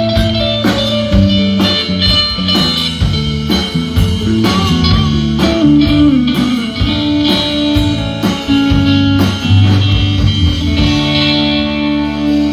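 Live band playing an instrumental blues-rock passage: electric guitar lines over bass and drum kit.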